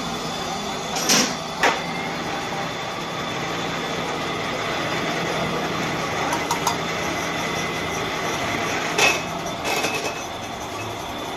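Steady mechanical running noise of workshop machinery, with a few sharp metal knocks: one about a second in, another just after, and a pair near the end.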